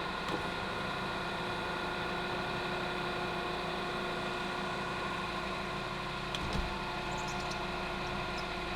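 2009 Honda Accord idling with the air conditioning running on max during a refrigerant recharge: a steady hum with several constant tones. A single dull thump comes about two-thirds of the way through.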